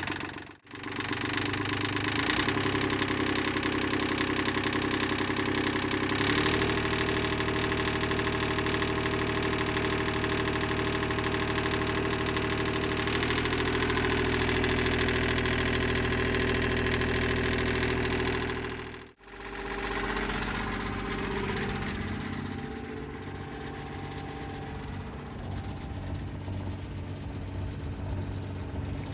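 Rebuilt Yanmar 3GM30F three-cylinder marine diesel running steadily, its speed stepping up a couple of times; the engine sounds fine. About 19 seconds in the sound drops out briefly and a quieter, lower running sound follows.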